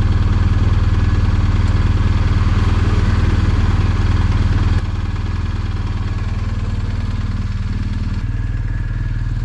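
Motorcycle engine running steadily at an even speed, with no revving; it drops a little in level about five seconds in.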